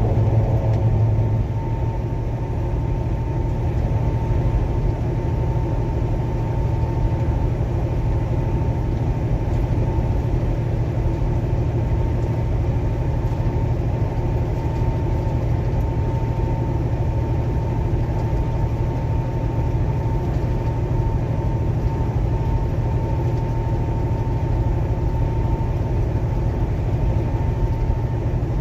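Steady drone of a semi-truck's diesel engine and road noise heard from inside the cab while cruising, with a faint steady whine throughout.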